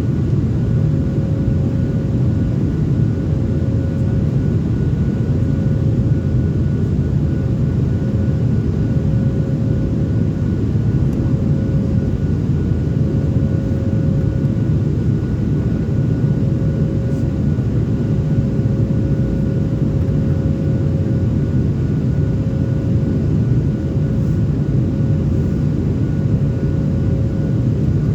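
Airliner cabin noise heard from a window seat: a loud, steady low rumble of engines and airflow, with a steady hum on top that holds its pitch throughout.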